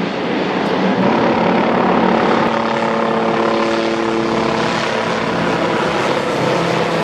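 Aircraft engine running loudly close by: a steady, dense drone whose pitch settles into an even hum about two and a half seconds in.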